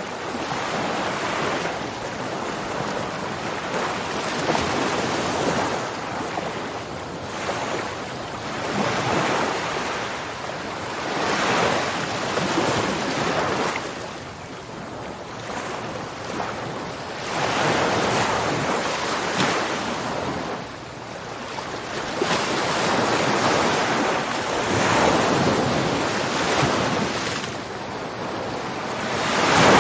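Ocean waves washing ashore in a steady surf, swelling and falling away every few seconds.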